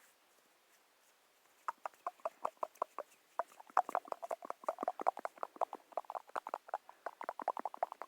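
Rapid ASMR tapping on a hard object that rings briefly with each tap, starting about two seconds in and running at about seven or eight taps a second.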